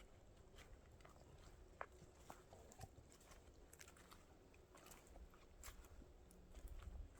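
Faint, irregular crunching of footsteps in fresh snow, with a low rumble that grows near the end.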